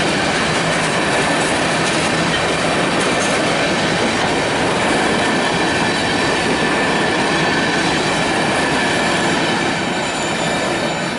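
Local freight train's cars rolling past at a crossing, steel wheels clattering over the rail joints with some wheel squeal, steady until the sound begins to fade near the end as the train moves off.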